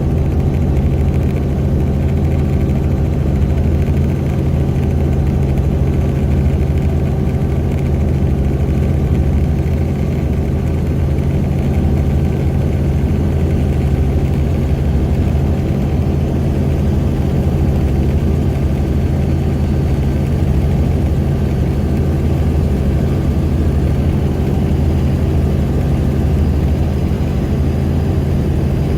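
Helicopter in flight heard from aboard: the engine and rotor run with a steady, unchanging drone.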